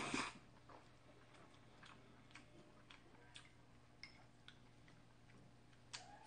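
Quiet chewing of a mouthful of glass noodles: faint, irregular small clicks about every half second. A noodle slurp tails off at the very start.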